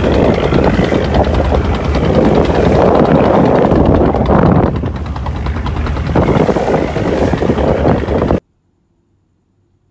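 Boat engine running loudly at sea, with a steady low drone under a noisy wash. It cuts off abruptly about eight seconds in.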